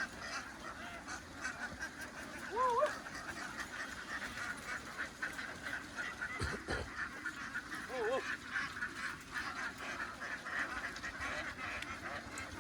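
A large flock of domestic ducks quacking in a dense, continuous chatter.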